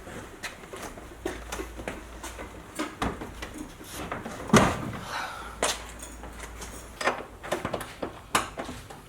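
Irregular knocks and clunks as a bucket seat on its rails is manoeuvred into a car's cabin, with one heavy thump about four and a half seconds in and a run of quicker knocks near the end.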